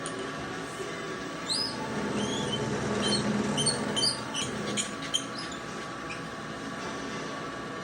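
Small machine-tool motor running with a steady hum, with a run of short high squeaks for a few seconds in the middle.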